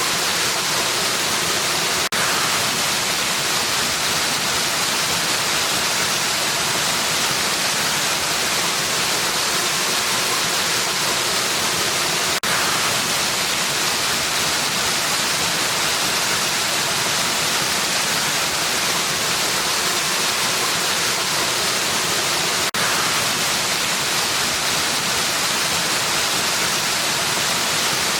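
Waterfall rushing steadily, an even hiss of falling water with most of its energy high up. A tiny click with a brief dip in level comes about every ten seconds.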